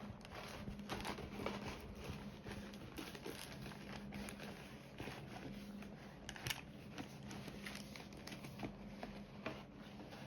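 Small irregular taps and crinkling of diamond painting work by hand: a drill pen setting resin drills on the sticky canvas and the plastic film and pattern keeper rustling. A low steady hum sits underneath.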